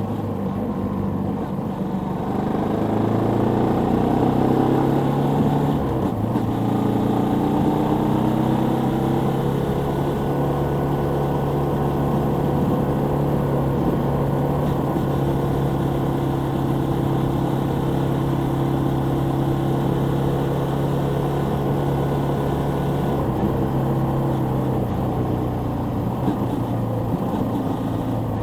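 Suzuki Volty 250's air-cooled single-cylinder engine running under way. Its pitch climbs over the first few seconds, then holds steady for a long stretch, shifting a little near the end.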